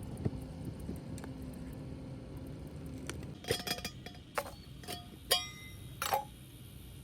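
A few light clinks and knocks of hard objects, some ringing briefly, starting about halfway through, over a faint steady low hum.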